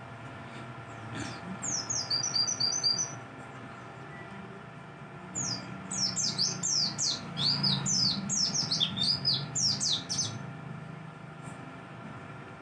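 Pleci dakbal (white-eye) singing: two bouts of rapid, high, downward-slurred chirps, a short one about a second in and a longer one from about five to ten seconds in, over a steady low hum.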